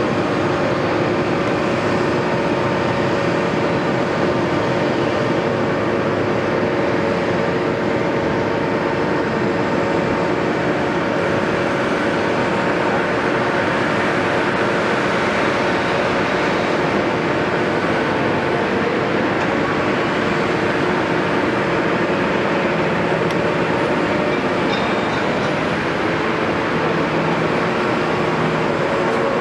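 Caterpillar 329E excavator's diesel engine running steadily under load, a constant drone with several steady tones layered over it.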